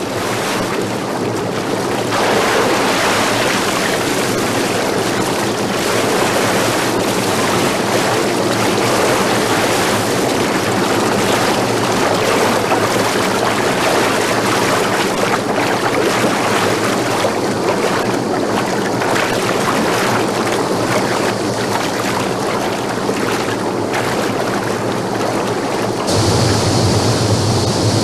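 Rushing whitewater of river rapids, a steady roar of water. About two seconds before the end the sound changes and a deeper rumble comes in.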